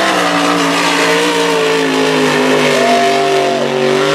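Mega truck's engine running hard at high revs through the race course, a steady loud engine note that eases slightly in pitch, with a brief higher whine around three seconds in.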